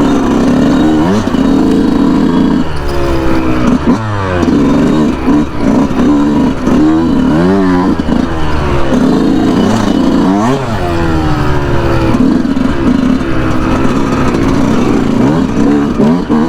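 Yamaha YZ125 two-stroke single-cylinder dirt bike engine being ridden hard, its pitch climbing and dropping over and over as the throttle is opened and closed.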